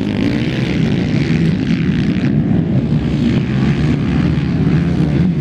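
Engines of 250 cc enduro racing motorcycles running, making a loud, steady drone.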